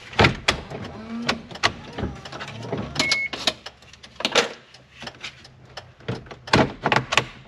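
Plastic dashboard trim of a Suzuki Carry kei truck being worked loose and handled: a string of irregular clicks and knocks, several bunched together about three seconds in and again near the end.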